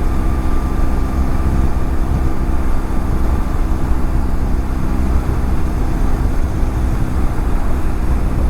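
BMW F700GS parallel-twin engine running at a steady cruising speed, with heavy wind rumble on the helmet-mounted microphone.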